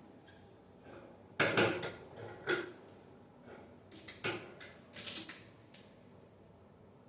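Irregular knocks and clatters of objects being handled, with the loudest about a second and a half in and a few more through the middle.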